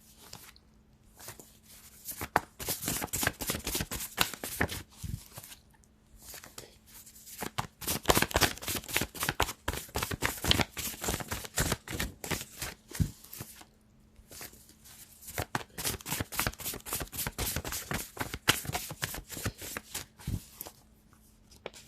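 A deck of reading cards being shuffled by hand, heard as three long stretches of rapid card clicks and riffles with short pauses between them.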